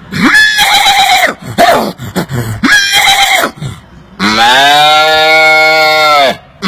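A man imitating animal calls with his mouth: three short calls, then one long steady call lasting about two seconds.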